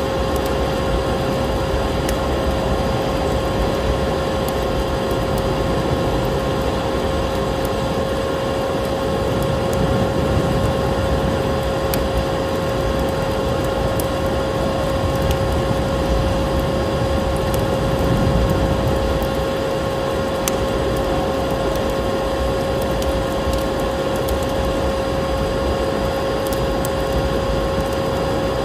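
Vacuum cleaner running with a steady whining hum, mixed with a crackling fireplace fire giving scattered sharp pops and snowstorm wind that swells around ten and eighteen seconds in.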